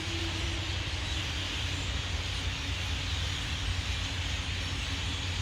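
A huge flock of birds calling all at once from the trees: a dense, steady chatter with no single call standing out, over a low steady rumble.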